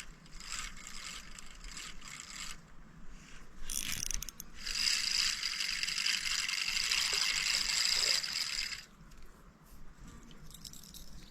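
Fishing reel being cranked to retrieve a lure, its gears whirring in two spells: a short one at the start, then a longer, louder one from about four and a half to nine seconds in.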